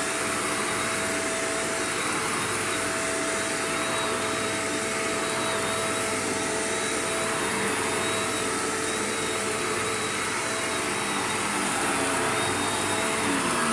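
Shark Rotator upright vacuum cleaner running steadily, a constant motor whine with a steady high tone over a rush of air, rising and falling slightly as it is worked over the floor.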